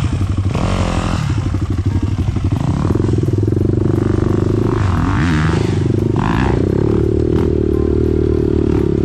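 Dirt bike engine running. The revs change unevenly over the first few seconds, then are held steady from about three seconds in, with a brief rise and fall in pitch around the middle.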